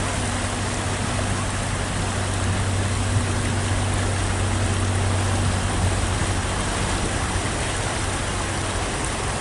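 Car driving through deep floodwater: water rushing and sloshing around the car, with the engine's steady low hum underneath.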